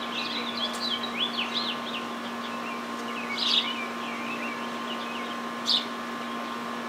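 Small songbirds chirping and singing: a run of quick, rising and falling chirps in the first couple of seconds, then louder bursts about halfway and near the end. A steady faint hum runs underneath.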